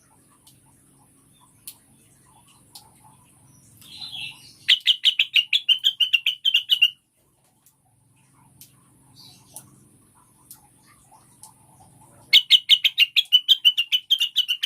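Female cucak wilis (rengganis) leafbird calling: two bouts of rapid repeated chattering notes, each about two seconds long, the first about five seconds in and the second near the end.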